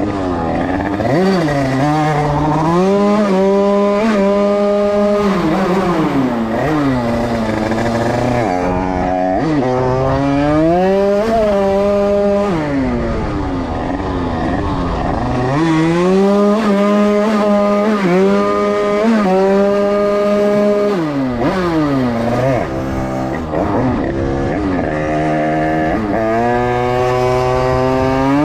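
Small two-stroke Derbi 80cc motorcycle engine being ridden hard. Its pitch climbs and holds high at full revs, then drops away as the throttle closes. This happens about four times.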